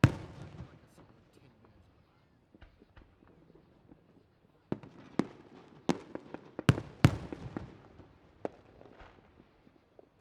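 Aerial fireworks bursting: a loud bang at the start that echoes away, then a quick volley of sharp bangs about halfway through, with a few smaller cracks after.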